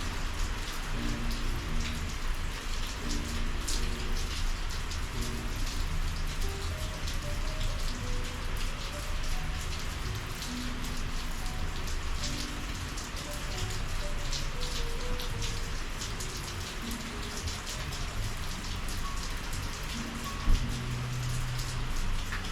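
Steady summer rain falling, with many separate drops striking close by all through. A single sharp knock stands out about 20 seconds in.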